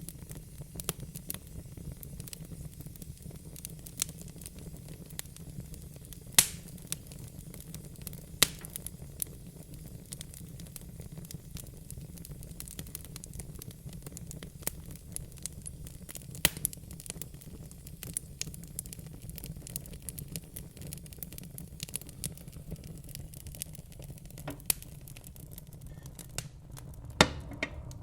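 Wood fire burning in a fireplace: a steady low rumble of the flames with frequent small crackles and a few sharp pops, the loudest about six, sixteen and twenty-seven seconds in.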